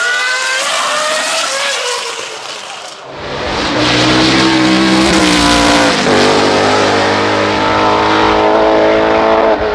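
Racing car engines at high revs: one car fades away over the first three seconds, then a second runs loud at high revs, with a brief drop in pitch about six seconds in, like a gear change.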